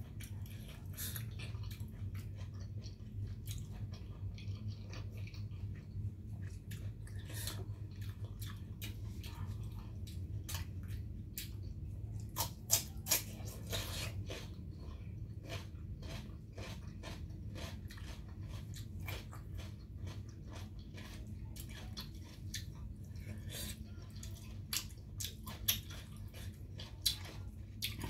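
Eating sounds: chewing and biting squid and raw vegetables, with wet mouth clicks and a few sharper crunches, over a steady low hum.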